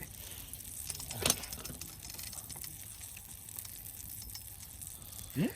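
Wood campfire crackling: scattered small pops and a sharper one about a second in, over a faint steady hiss. A short rising vocal sound near the end.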